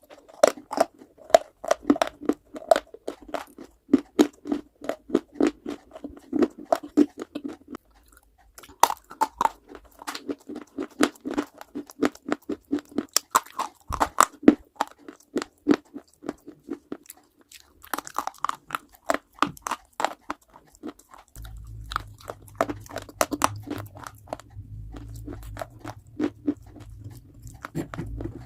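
Close-miked biting and chewing of hard baked clay, dense crisp crunches and crackles coming several times a second with short pauses between mouthfuls.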